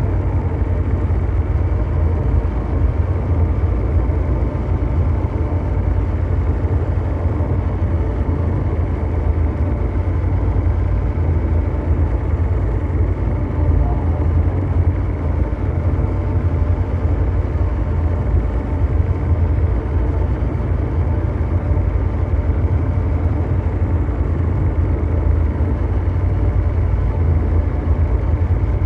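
Ambient mechanical drone noise: a steady, deep engine-like rumble, heaviest in the bass, with faint steady hum tones above it and no change or break.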